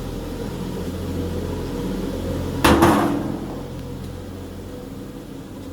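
A single loud clunk about two and a half seconds in, over a steady low machine hum.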